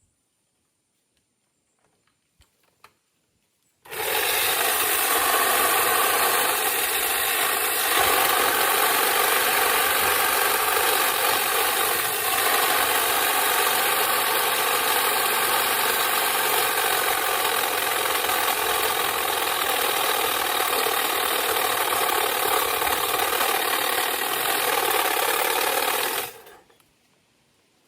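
Motorized tree-trimming tool running steadily at one speed. It starts suddenly about four seconds in and cuts off suddenly near the end.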